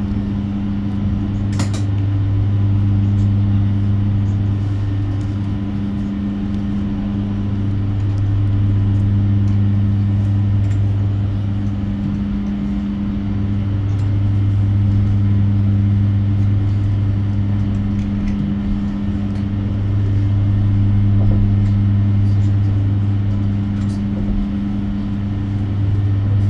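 Steady low hum inside an electric bus cabin, with a layered tone that pulses on and off about every two seconds. A brief click comes about two seconds in.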